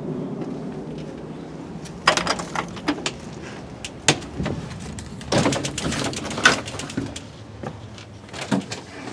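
Irregular scrapes, clicks and rustling of hands working among garden plants, in clusters about two, four, five to seven and eight and a half seconds in. A low steady hum fades over the first two seconds.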